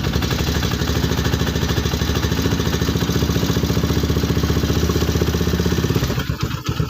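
Motorcycle engine idling steadily, left running so it charges its battery, which feeds an inverter. The sound turns briefly uneven near the end.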